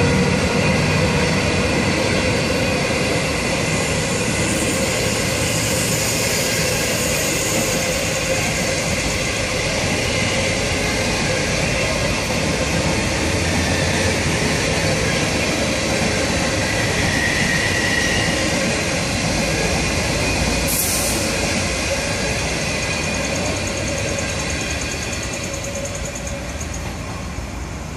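25T passenger coaches of a train hauled by an electric locomotive rolling past on the rails: a steady rumble of wheels on track that fades near the end. A brief hiss comes about three-quarters of the way through.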